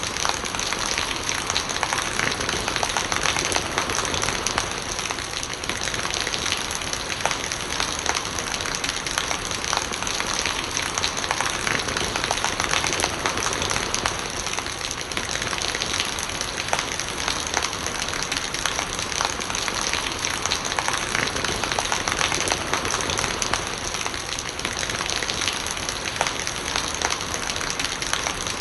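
Steady rain with a dense patter of raindrops and rainwater gurgling as it runs off.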